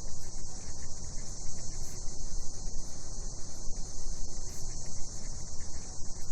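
Cicadas droning at night in a steady, unbroken high chorus, over a fluctuating low rumble.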